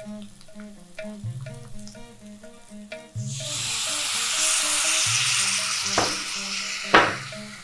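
Tamarind water poured into a hot wok of frying bitter gourd starts sizzling suddenly about three seconds in and slowly dies down, with two sharp knocks near the end, the second the loudest. Soft rhythmic background music plays throughout.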